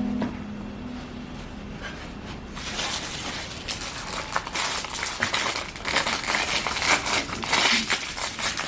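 Crinkling and rustling of something being handled, in irregular bursts that start about two and a half seconds in and grow louder toward the end.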